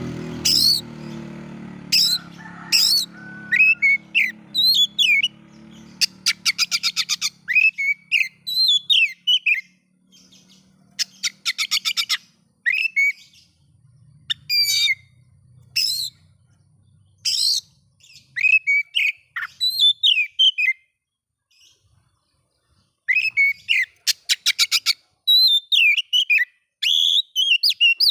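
Oriental magpie-robin (kacer) singing a varied song of slurred, rising and falling whistles mixed with fast rattling trills, phrase after phrase with short pauses between.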